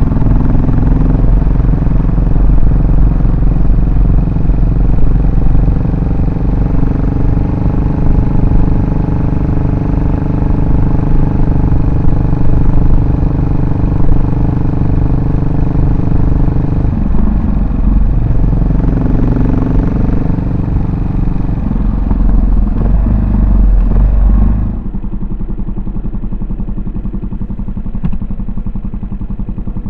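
Yamaha SR400's single-cylinder four-stroke engine and exhaust running under way, with two brief drops in revs partway through. About 25 seconds in it suddenly becomes quieter and settles into an even idle.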